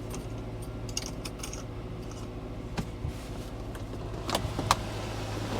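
2014 Subaru Forester XT's turbocharged flat-four idling steadily just after starting, with scattered light clicks and ticks about a second in, near three seconds and twice more near the end.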